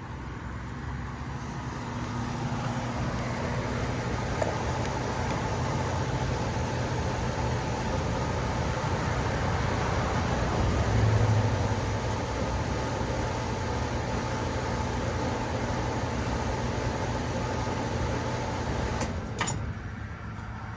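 Outdoor central air-conditioner condenser units running, a steady compressor hum under the rush of the condenser fans. Near the end there is a sharp click and the sound drops away, as when a unit cuts off.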